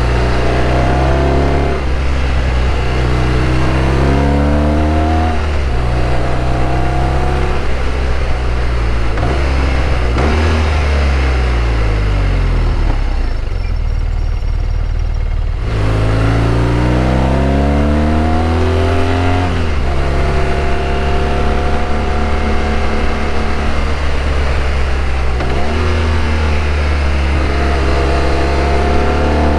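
BMW R1200RT's boxer twin engine heard from the rider's seat, pulling up through the gears: the pitch climbs and then drops sharply at each upshift. About a third of the way in the revs fall away and it runs quietly off the throttle, then it accelerates again through several more shifts, with wind rushing throughout.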